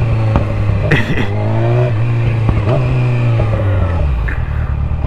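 Motorcycle engine running while riding, its pitch sweeping up and down a few times as it accelerates and shifts gears.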